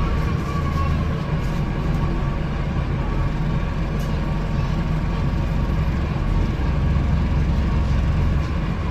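Wright StreetDeck double-decker bus's Daimler OM934 diesel engine running under way, a steady low rumble, with a faint high whine fading out in the first second.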